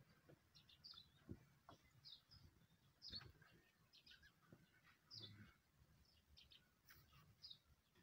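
Near silence with faint bird chirps, short high notes repeated every half second or so, and a few soft clicks.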